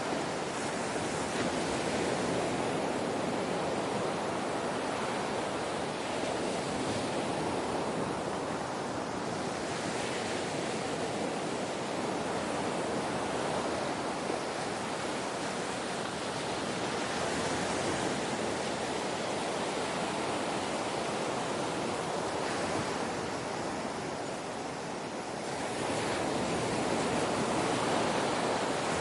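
Ocean surf: a continuous wash of breaking waves, swelling and easing every several seconds.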